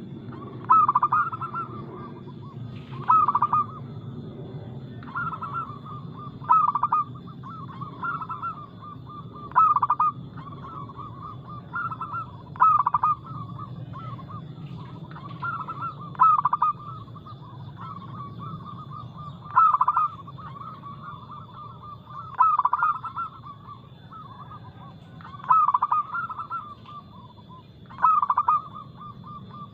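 Zebra dove (perkutut) cooing. Loud phrases come about every three seconds over continuous softer cooing.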